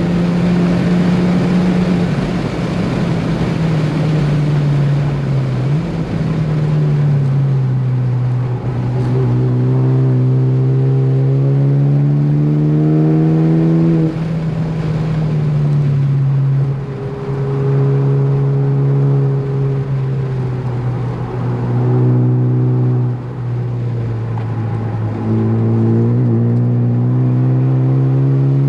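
Ford Focus ST engine at full track pace, heard from inside the car. Its pitch climbs under hard acceleration and drops suddenly at gear changes and lifts, about four times, over steady tyre and road noise.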